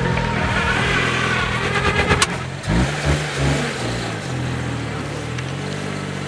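2015 Mitsubishi Mirage's 1.2-litre three-cylinder engine revving as the front-wheel-drive hatchback is driven in tight circles on grass. The engine note drops briefly about two and a half seconds in, then picks up again.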